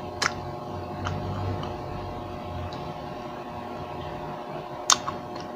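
Close-up chewing of fried kikiam, with a few sharp clicks, the loudest about five seconds in, over a steady hum.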